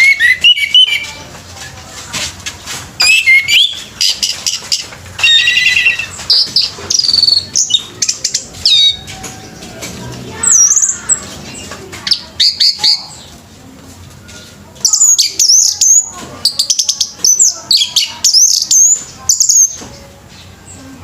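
Orange-headed thrush (anis merah) singing loudly in bursts of varied high phrases, with a long run of rapid chattering notes in the second half.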